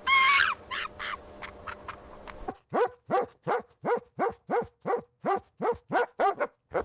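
A run of short animal calls, each rising then falling in pitch, about three a second, starting a little after two seconds in. A single brief, higher call sounds at the very start.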